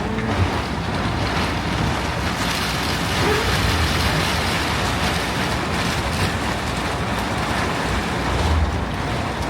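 Steady wind and lake surf, with wind buffeting the microphone into a low rumble that swells briefly near the start and again near the end.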